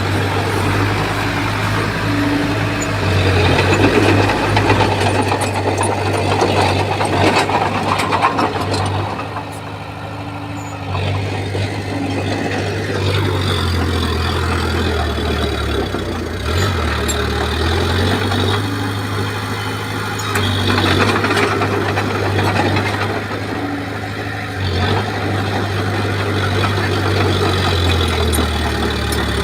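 Bulldozer's diesel engine working under load, its low note rising and falling, with rough grinding and clattering noise over it. It eases off briefly about a third of the way in, then picks up again.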